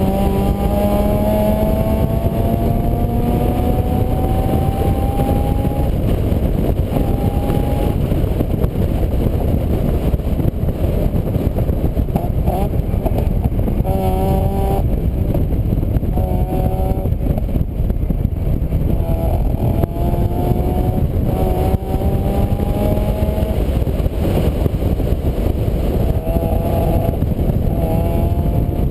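A vehicle engine under way. Its pitch climbs slowly, breaks off and starts again several times, as if pulling through gears. A loud, constant low rumble lies over it.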